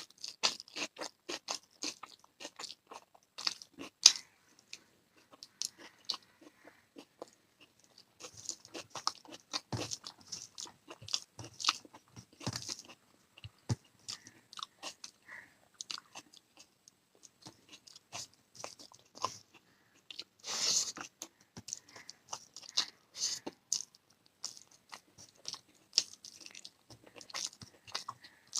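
A person chewing and biting close to the microphone, with many crisp crunches and wet mouth clicks, eating rice with egg curry, raw onion and green chilli. One crunch about four seconds in is the loudest.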